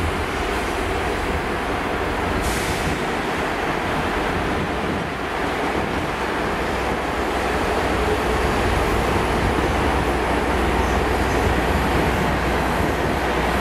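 GWR passenger train moving slowly along the platform: a steady rumble of wheels and running gear with a constant hum, swelling a little about two-thirds of the way in.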